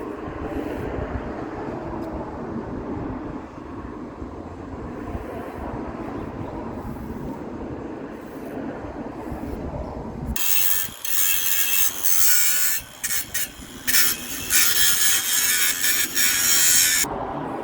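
A steady low rumble, then from about ten seconds in the loud, crackling hiss of a MIG welding arc, laid down in several short runs with brief pauses between them.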